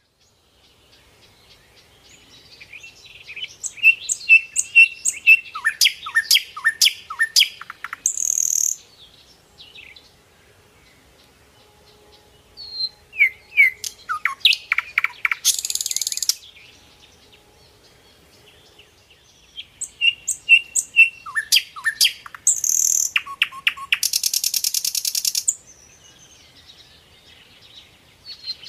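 Birdsong in three bouts of rapid chirps, quick downward-sweeping whistles and short harsh buzzy notes, with pauses between the bouts.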